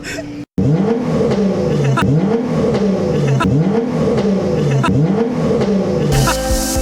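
Nissan GT-R R35's twin-turbo V6 through a straight-piped titanium exhaust, revved in repeated quick blips: its note climbs and falls about seven times in a row, with a few sharp pops. Near the end it gives way to a loud rushing noise.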